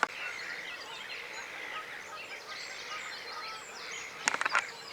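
Small birds singing, with many overlapping chirps and warbles, as a background chorus by a lake. A few sharp clicks or knocks come close together about four and a half seconds in.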